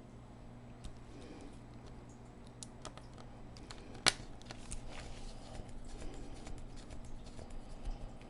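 Small screws and a small screwdriver working on a laptop's battery: light scattered metal clicks and scrapes, with one sharper click about four seconds in.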